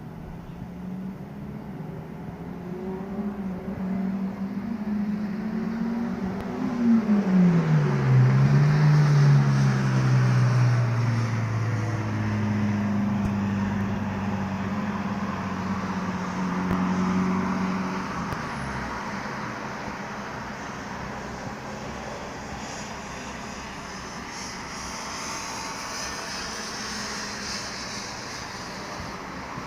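A motor vehicle passing on a street, its engine pitch dropping sharply as it goes by about seven seconds in. A second engine is heard until past the middle, over steady traffic noise.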